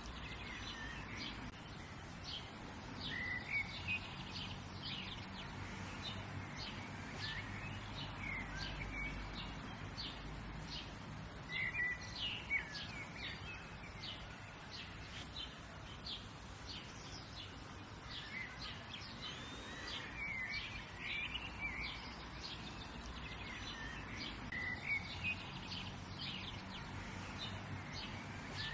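Several small birds chirping and calling, with many short, quick notes scattered throughout over a steady low background hiss.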